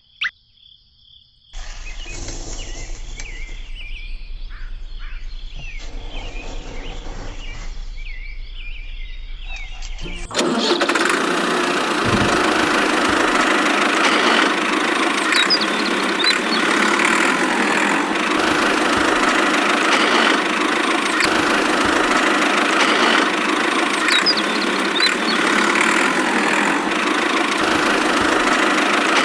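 A small motor running steadily, quieter at first with a low hum, then suddenly much louder about ten seconds in and staying loud and even.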